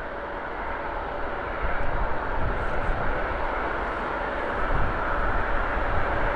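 Jet engine noise of an Airbus A330-300 with Rolls-Royce Trent 700 engines on its landing roll, a deep rumble and rushing roar that grows steadily louder.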